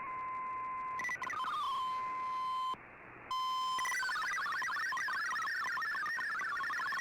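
Shortwave digital-mode data signal from a receiver's speaker: a steady whistle-like tone with a short downward glide, broken briefly near the middle, then from about four seconds in a fast warble of hopping tones, typical of MFSK text transmission.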